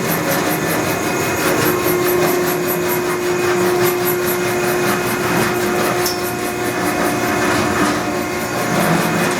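Cobra VH1820 hydraulic vertical bandsaw running, its hydraulic pump and blade drive making a steady loud machine noise, with a steady hum through the middle. The blade is running dry, without coolant.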